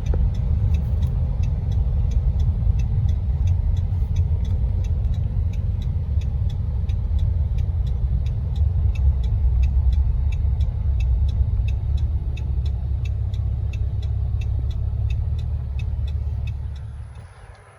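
Vehicle driving on the road, a steady low rumble of engine and tyres, with a faint regular ticking running through it. The rumble fades away about a second before the end.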